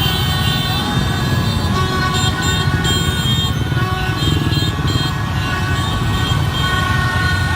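Dense motorbike traffic running, with many horns honking and tooting over one another in a steady din.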